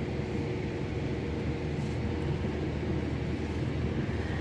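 A steady, low mechanical hum that keeps an even level throughout.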